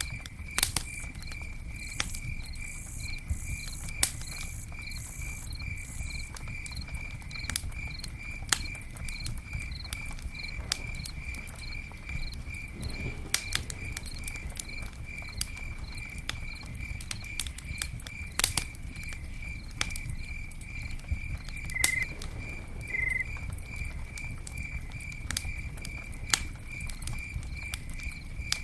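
Campfire burning with a steady low rumble and scattered sharp crackles and pops, while a cricket chirps steadily, about two chirps a second.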